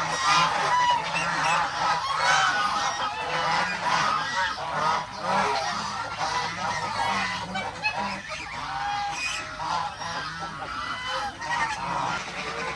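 A flock of geese honking continually, many short overlapping calls, with other farm fowl among them.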